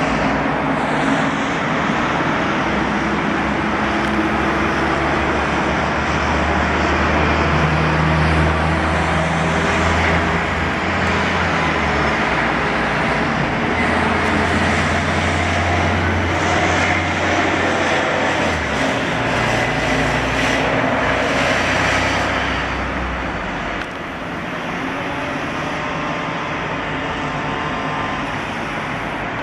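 Diesel bus engines running among road traffic. A deep engine note is strongest in the middle, then fades, and the sound eases slightly about 24 seconds in.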